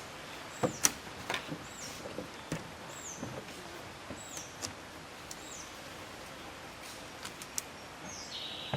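A bird calling with short high chirps that fall in pitch, about once a second, and a longer call near the end, over scattered sharp clicks and knocks. The loudest click comes about a second in.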